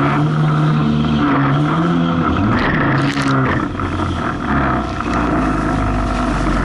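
Jet ski engine running under way, its pitch rising and falling as the throttle changes in rough water, with a brief splash of spray about three seconds in before it settles to a lower, steadier note.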